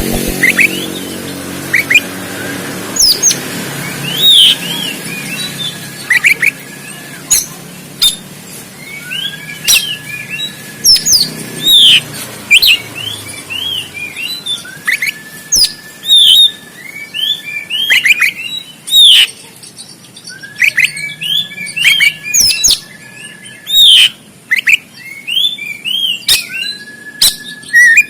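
Oriental magpie-robin (kacer) singing loudly in agitated 'konslet tarung' fighting mode: rapid, sharp, swooping whistled notes, with a long level whistle repeated about every five or six seconds.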